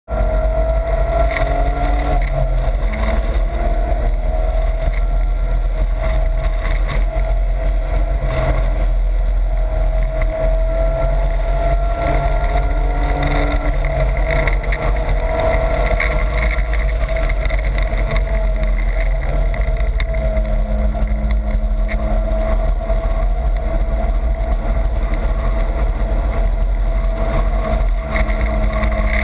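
BMW's engine running hard on track, heard from inside the cabin, its note holding high and steady and drifting slightly up and down, with heavy low wind rumble on the microphone.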